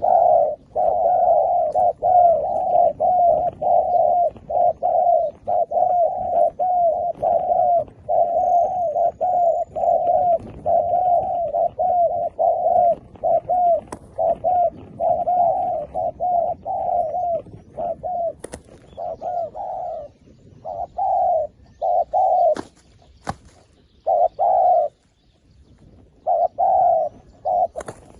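Dove cooing in a fast unbroken run of short notes, several a second, for about twenty seconds, then in shorter phrases with pauses between them; the calling of a decoy dove set out to lure wild doves down.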